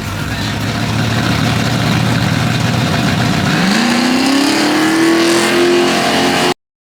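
A car engine running at a steady pitch, then accelerating hard with a rising pitch about halfway through. The sound cuts off suddenly near the end.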